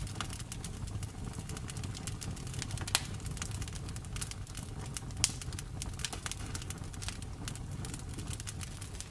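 Wood fire in a fireplace crackling: a steady stream of small sharp pops over a low rumble of flames, with two louder pops about three and five seconds in.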